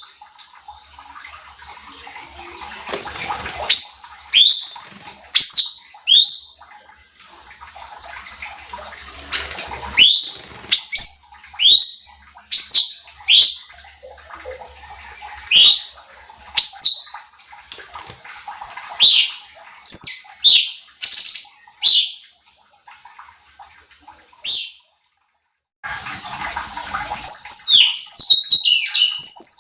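Cucak cungkok singing: a string of short, sharp whistled notes with gaps between them, over a rushing background hiss. The sound cuts out briefly near the end, then a quick run of notes follows.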